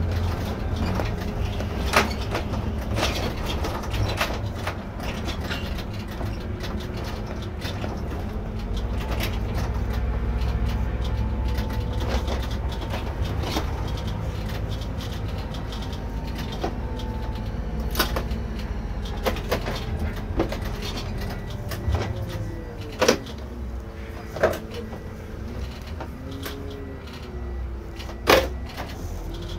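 Irisbus Récréo II coach under way, heard from the driver's seat: a steady diesel engine drone whose pitch slowly rises and falls with road speed. Several sharp knocks and rattles from the coach body come over it, the loudest three in the second half.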